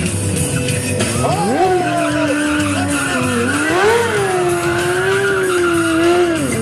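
Motorcycle engine revving hard and held at high revs. Its pitch climbs steeply about a second in, holds, then rises and falls again around four seconds in, over a hiss of tyre and road noise.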